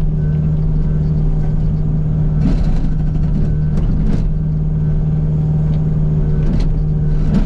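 Kubota U55 mini excavator's diesel engine running steadily under load, with a few separate sharp knocks and clanks, the loudest about two and a half seconds in and again near the end.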